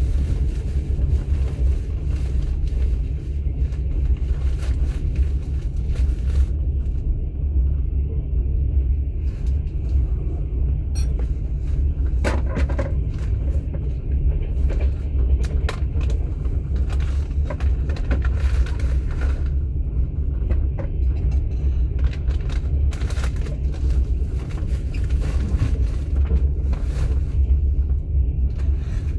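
Passenger train running, heard inside an open-plan platskart sleeper carriage: a steady deep rumble from the wheels and running gear, with scattered clicks and rattles.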